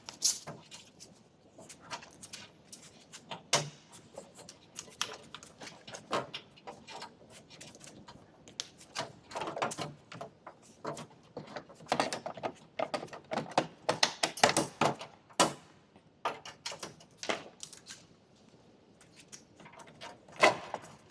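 Irregular knocks, taps and clicks of tools and metal parts being handled, coming in clusters with short pauses between.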